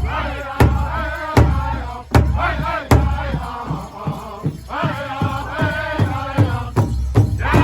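Powwow drum group singing a men's traditional dance song in unison over a steady beat on a large powwow drum.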